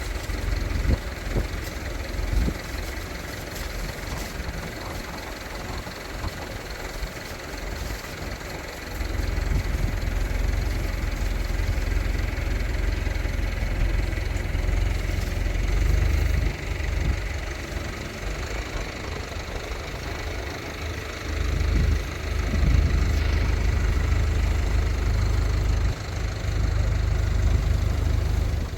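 A motor vehicle's engine running, a low rumble that is weaker at first and grows louder about nine seconds in.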